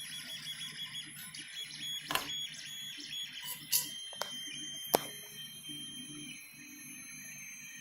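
3D printer running a print: its stepper motors whine in steady high tones that shift in pitch about four seconds in, over a low hum, with a few sharp clicks.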